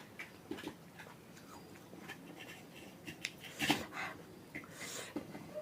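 A person eating: faint chewing and small mouth and handling sounds, with scattered clicks and a short louder noisy sound about three and a half seconds in.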